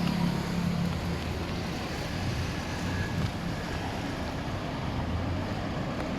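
Motor vehicle engine running with a steady low hum, loudest in the first second, over an even wash of street noise.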